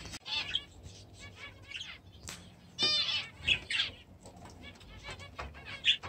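Small cage birds chirping and chattering, with a fast rapid trill about three seconds in and a sharp loud chirp near the end.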